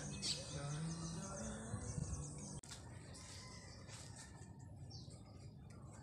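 Faint wild bird chirps over outdoor background, with a low hum under them that cuts off abruptly about two and a half seconds in; a few faint chirps and ticks follow.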